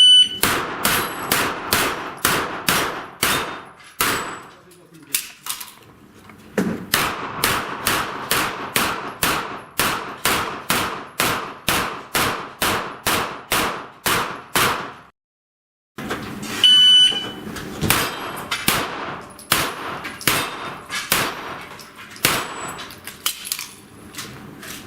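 An electronic shot-timer beep, then a rapid string of pistol-calibre shots at about two to three a second. After a short break in the sound, a second beep starts another string of shots.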